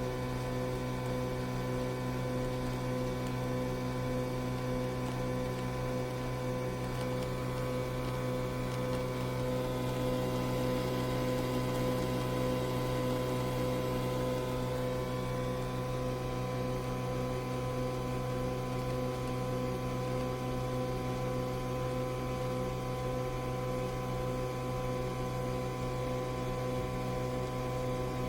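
Steady electrical hum: a constant low drone with several fixed higher tones over it, unchanging throughout.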